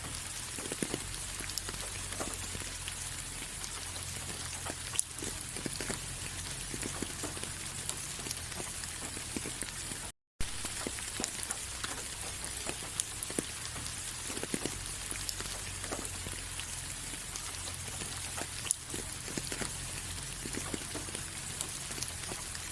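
Steady rain with many individual drops tapping close by. The sound cuts out completely for a split second about ten seconds in.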